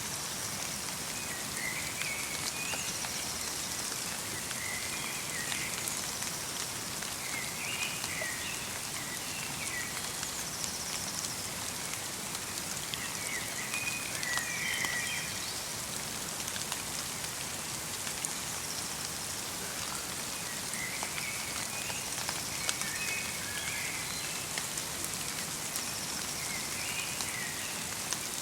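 Steady light rain falling in a forest, with scattered drop ticks. A small bird repeats short high twittering phrases every few seconds.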